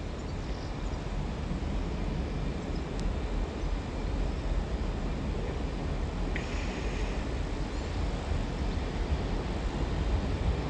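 Steady low rumble of an East Midlands Railway Class 158 diesel unit running into the terminus platforms amid station background noise, with a faint high squeal starting about six seconds in.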